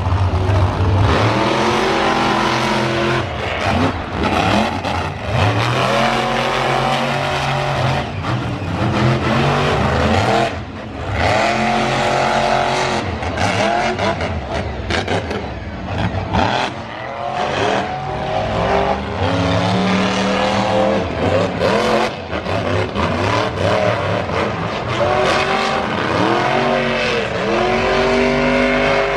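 Monster truck engine revving hard, its pitch climbing and dropping again and again as the throttle is worked, broken by a few brief sharp cracks.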